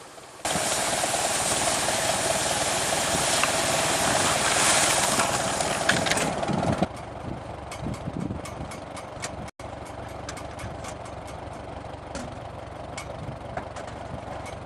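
Tractor engine running, loud and noisy for about six seconds, then cut abruptly to a quieter stretch with many light clicks and rattles.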